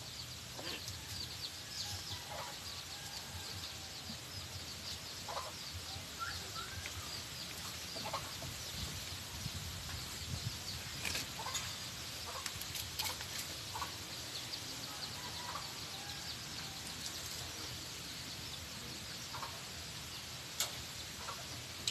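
Birds giving short, scattered calls every second or two over a steady high hiss, with no words from the bird.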